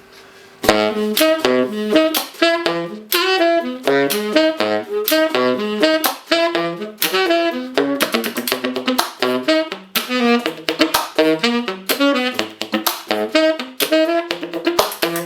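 Solo saxophone played open, without a mute, at full volume. It is a fast jazz line of short, sharply attacked notes, starting about a second in.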